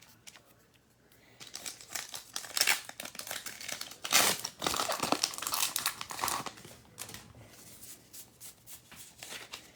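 A trading card pack's wrapper being torn open and crinkled, starting about a second and a half in, loudest in the middle, then fading to lighter rustling as the cards are handled.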